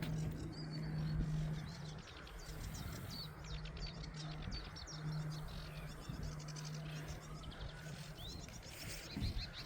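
Small birds chirping and twittering in the background, many short calls throughout, with a steady low hum that comes and goes underneath.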